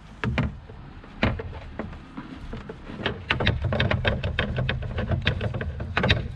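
Hand tools clicking and knocking on metal, a quick run of sharp clicks from about halfway in, over a low rumble.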